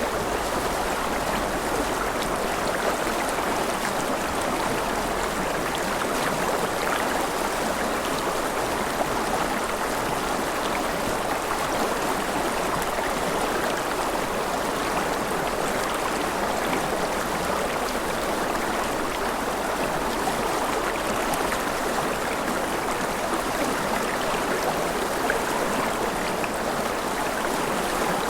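River water flowing steadily over a rocky bed, a continuous rushing and gurgling with no breaks or single events.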